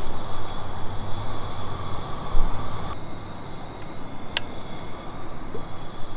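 Coleman propane camp stove burner running steadily under a pan of water heating toward the boil, with one sharp click about four seconds in.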